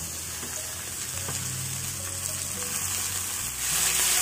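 Onions and spices frying in oil in a pan, sizzling steadily; about three and a half seconds in the sizzle grows louder as chopped tomatoes go into the hot oil and are stirred with a spatula.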